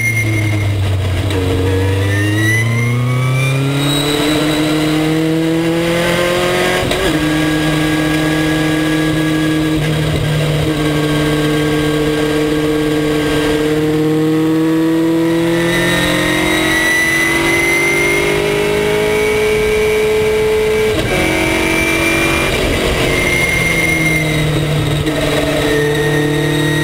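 Race car engine at full racing revs, heard from on board at a loud, constant level. The pitch drops at the start, climbs steadily from about two seconds in, dips and breaks again a little past the middle and a few times near the end, then rises again, as the car brakes and accelerates around the track.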